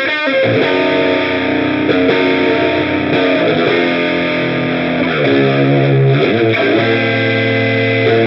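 Electric guitar played through the Olinthus Cicada overdrive pedal, with a distorted tone. It plays held chords and notes, some of them bent in pitch partway through.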